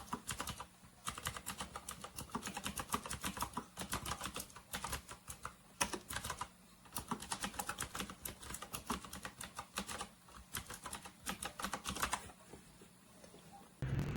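Fast typing on a retro typewriter-style mechanical keyboard: quick runs of clicky keystrokes with a few short pauses. A steady low hum cuts in at the very end.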